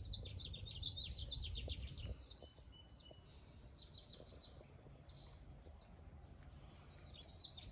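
A songbird singing outdoors, with rapid trilled chirps, loud for the first two seconds, sparse in the middle, and starting up again near the end. A low rumble runs under the first two seconds, then drops away.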